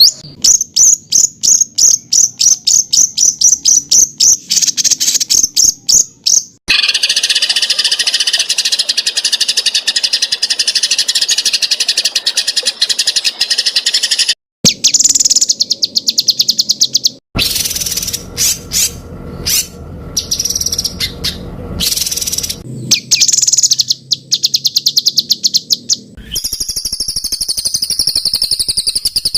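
Songbird song compiled as a masteran for cage birds: a run of sharp high notes repeated about four times a second, then a long unbroken buzzy trill, then further rapid clipped phrases and rattles. These are the dense, harsh 'tembakan' phrases and 'ngedur' nonstop trilling. The segments switch abruptly several times.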